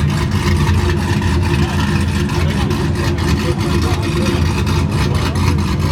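Engine with an aggressive cam idling with a choppy, lumpy beat that does not change.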